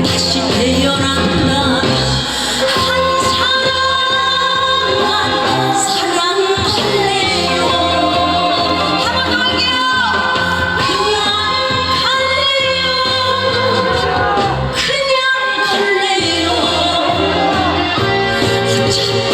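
A woman singing a Korean trot song with vibrato over musical accompaniment, in a large hall.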